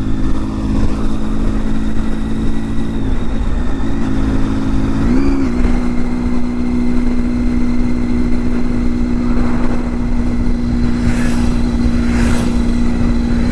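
A motorcycle engine running at a steady pitch over a heavy low rumble. The pitch shifts briefly about three and five seconds in.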